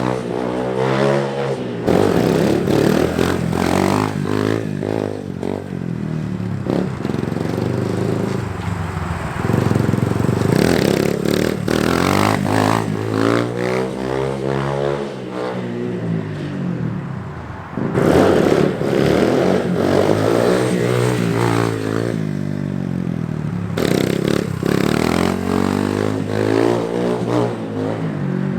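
SSR 150 dirt bike's single-cylinder four-stroke engine revving up and falling back again and again as the throttle is opened and shut, with a rattle and scrape under it. The sound changes abruptly a few times between runs.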